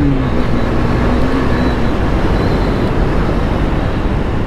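KTM Duke 250's single-cylinder engine running under way, its note easing down slightly in the first second, over a loud steady rushing noise.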